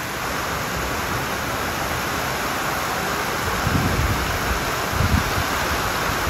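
Steady hiss of heavy rain with hail falling, with wind buffeting the microphone in low rumbles twice in the second half.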